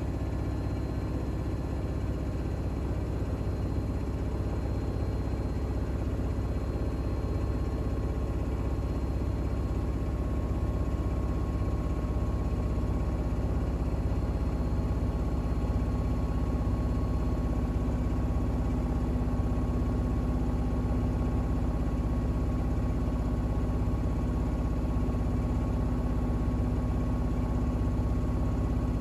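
Bosch WAX32GH1 front-loading washing machine in its 1200 rpm intermediate spin with an unbalanced towel load: a steady motor and drum hum with a low rumble.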